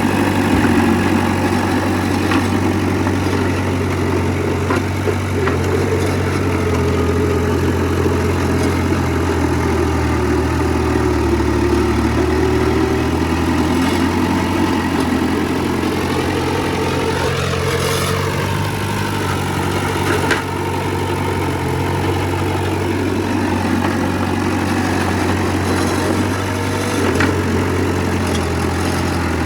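Heavy diesel engine of earthmoving machinery running steadily, with a few faint knocks. Midway through, a higher whine rises and then falls over a few seconds.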